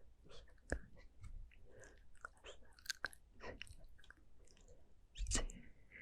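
Close-miked ASMR mouth sounds: soft, wet clicks and smacks of lips and tongue in an irregular patter, with a louder, bassy pop about five seconds in.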